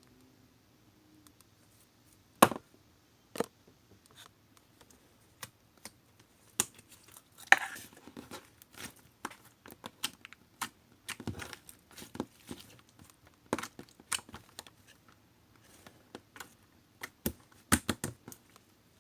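Slime being handled and mixed by hand: irregular sticky clicks and pops, with a short crackling tear as it is pulled apart about seven seconds in.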